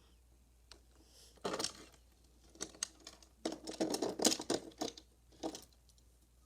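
Die-cast toy cars and a plastic Hot Wheels playset being handled, clicking and rattling together. There is a short clatter, then a longer run of rattling in the middle and one more brief clatter near the end.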